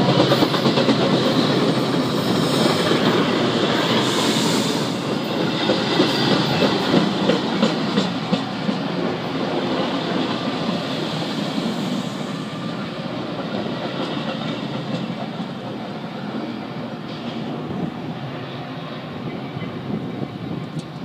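Metra bilevel commuter coaches rolling past at close range, their wheels clacking over the rail joints; the rumble slowly fades as the train pulls away.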